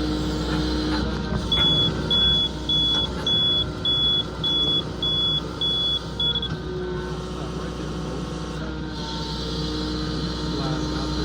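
Yanmar mini excavator's diesel engine running steadily, with a high electronic beeper going off nine times in a row, a bit under two beeps a second, starting a second or two in and stopping about halfway through.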